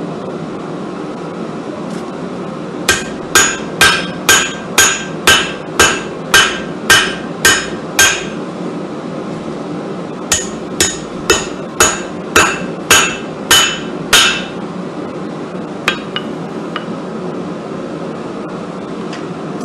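Hand hammer striking hot steel on an anvil: two runs of about ten ringing blows each, about two a second, with a pause between, then a couple of light taps. A steady hum runs underneath.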